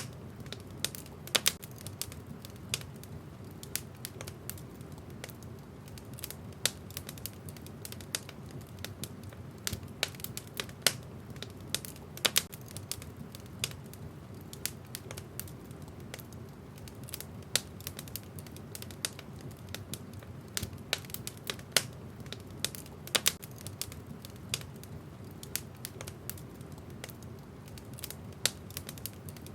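Wood fire in a fireplace crackling: irregular sharp pops and snaps from the burning logs, several a second, over a low steady rumble of the flames.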